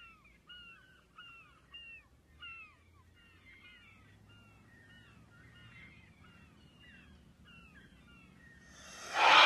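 Birds calling in the open air. For the first three seconds one bird gives a short rising-and-falling note about twice a second, then fainter, overlapping calls from several birds go on. Near the end a loud, piercing shriek suddenly breaks in.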